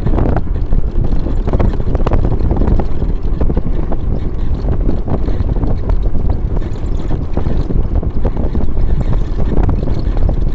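Wind buffeting the microphone over the loud rumbling noise of travel along a road.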